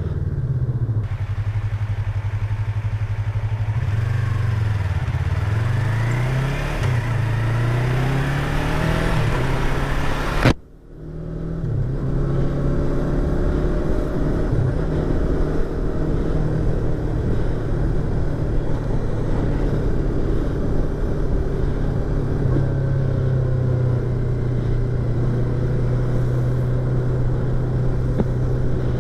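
Yamaha YZF-R25's 249 cc parallel-twin engine and exhaust heard from inside the rider's helmet, the pitch rising and falling through the revs for the first ten seconds or so. A sharp click and brief dip come about ten seconds in, then the engine runs fairly steadily.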